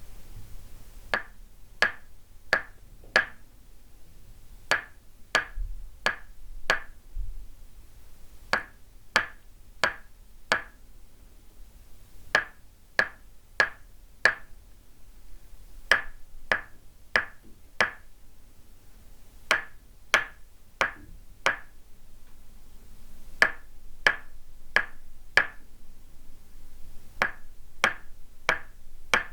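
Tok sen massage: a wooden mallet tapping a wooden peg pressed on the body, giving sharp, ringing wooden knocks. They come in steady groups of four, about one and a half a second, with a short pause between groups, eight groups in all.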